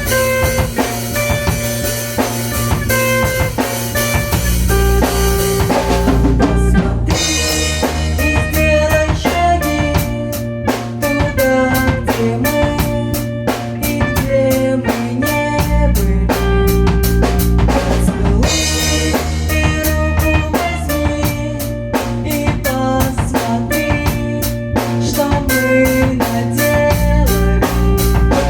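Instrumental rock music played on a drum kit with bass and electric guitar, the drums keeping a steady beat.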